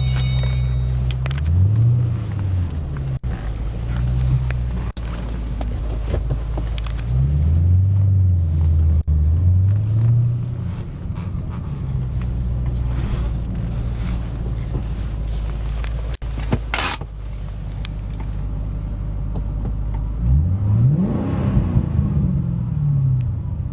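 2008 Ford Mustang GT's 4.6-litre V8 running at low revs while the car is driven slowly, its pitch rising and falling a few times with light throttle. One short sharp click comes late on.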